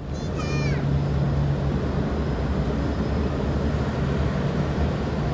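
Steady low drone of jet airliner engines at an airport. About half a second in there is one brief high, wavering call.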